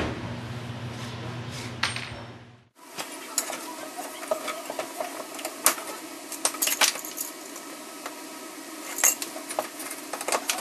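A low steady hum that cuts off about three seconds in, then scattered light metallic clinks and clicks from hand tools and screws being handled during floor tear-out.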